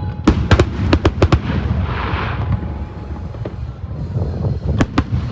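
Fireworks display: aerial shells bursting in sharp bangs, a quick cluster in the first second and a second cluster near the end, over a steady low rumble.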